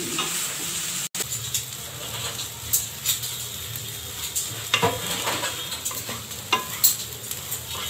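Poppy-seed (khaskhas) paste sizzling in ghee in a non-stick kadhai while a spatula stirs and scrapes through it, with scattered scraping clicks. This is the slow roasting of the paste toward golden brown for halwa.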